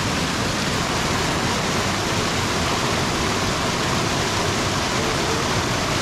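Waterfall: water rushing down rocky cascades, a steady, even noise of falling water.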